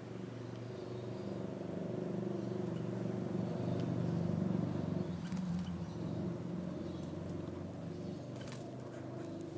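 A motor vehicle's low engine hum, growing louder to about halfway through and then fading, as if it passes by. A few faint clicks can be heard over it.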